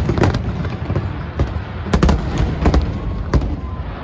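Fireworks exploding over the river: a string of sharp cracks, the loudest about two seconds in, over a steady low rumble of booms.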